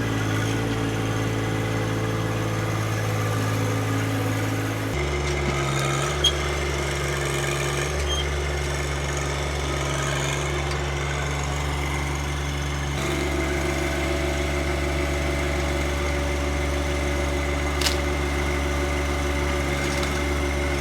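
John Deere 1025R compact tractor's three-cylinder diesel engine running steadily, its pitch shifting about five seconds in and again partway through. A couple of short sharp knocks.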